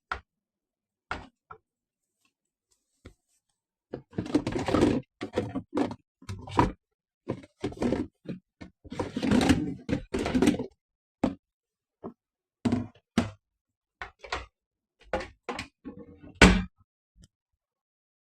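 A string of irregular knocks and thuds, with two longer stretches of clattering and rustling, about four and nine seconds in.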